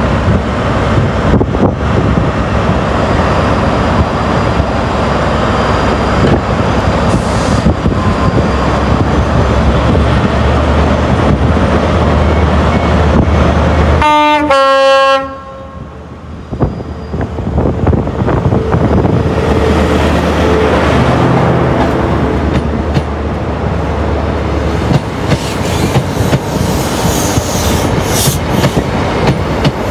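A train running on the station tracks, with a loud, steady rumble and rail noise. About halfway through, a short horn blast sounds; the noise then drops away for a moment before picking up again.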